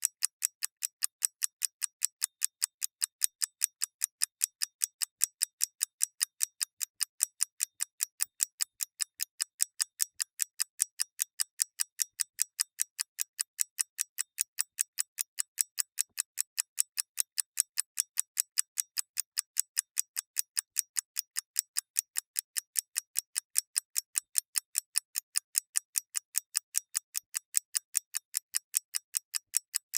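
Clock ticking: an even, unbroken run of crisp, high ticks, several a second, with no low end.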